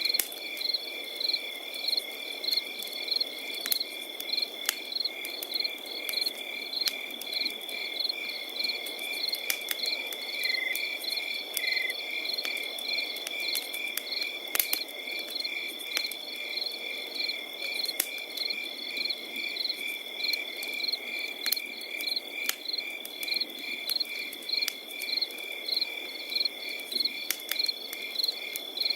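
Crickets chirping over a continuous high insect trill, with a campfire crackling in scattered sharp pops and a soft hiss underneath.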